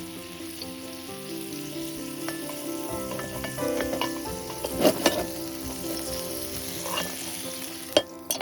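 Food sizzling as it fries over the campfire, with a few sharp clicks around the middle and near the end, over sustained background music notes.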